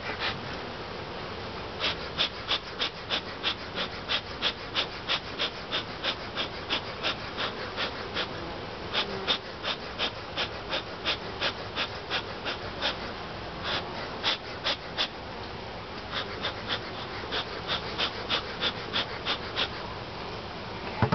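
Honeybees buzzing in a steady hum around an opened, agitated hive. Over it runs a quick series of short puffs, about two or three a second, in several runs with brief pauses.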